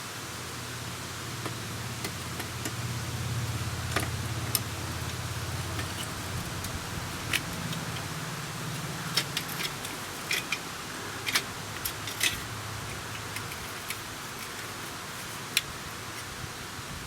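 Scattered metal clinks and taps from a steel exhaust pipe being worked up onto the exhaust-port studs of a 1976 Honda Goldwing GL1000 engine, over a low steady hum.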